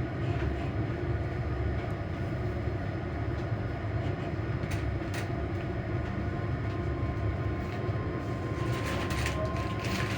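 Traction motors of a ScotRail Class 385 electric multiple unit humming steadily while the train is running, heard from inside the carriage over a low wheel-on-rail rumble. A steady higher tone joins about two-thirds of the way in, and rattling rail noise picks up near the end.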